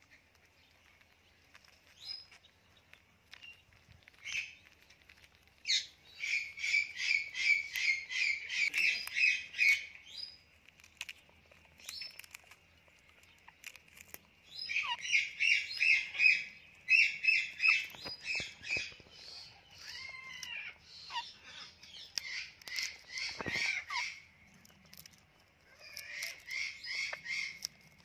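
Bird chirping in rapid runs of high, evenly repeated notes, about six a second, in several bursts of two to four seconds with quiet gaps between.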